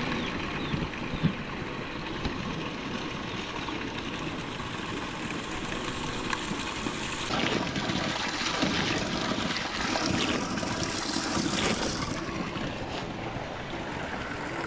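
Running water, a steady rushing with a change in tone about seven seconds in and again near twelve seconds.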